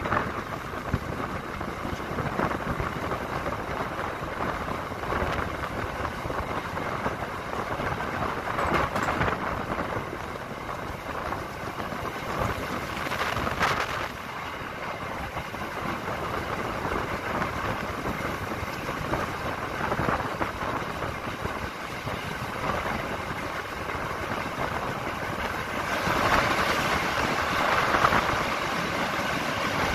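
Passenger train running along the rails, heard from on board: a steady rumble of wheels and carriages with rushing air, growing louder near the end.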